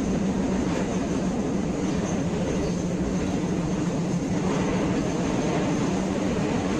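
Passenger train running at speed, heard from inside the carriage: a steady rumble of wheels on track with even noise throughout.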